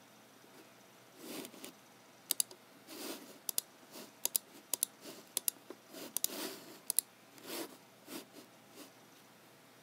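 Computer mouse clicking: about a dozen sharp clicks, several in quick pairs, mixed with a few softer sliding sounds of the mouse being moved.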